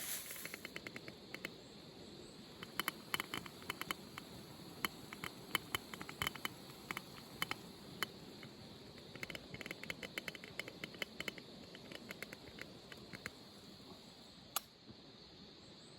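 Wood campfire crackling: irregular small sharp pops over a faint steady hiss, with one louder pop near the end.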